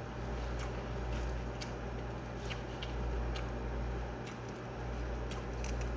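A person chewing food close to the microphone, with faint wet mouth clicks every second or so over a steady low hum.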